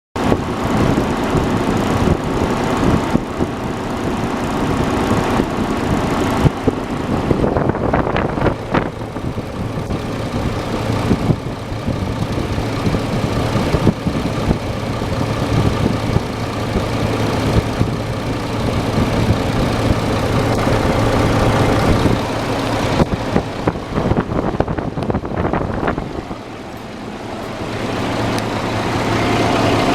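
Isuzu HK1-series diesel engine running steadily on its own, a used engine run to show it works; the sound dips briefly and picks up again near the end.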